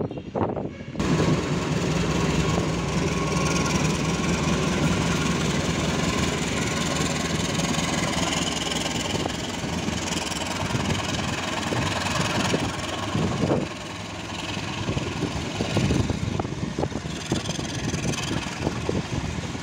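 Diesel-electric locomotive engine running loud as the train draws near, then the coaches rolling past with a steady rumble and knocks of wheels over the rail joints.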